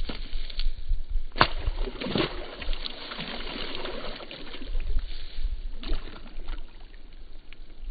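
Wind buffeting the microphone, with water sloshing and a few sudden splashes or knocks.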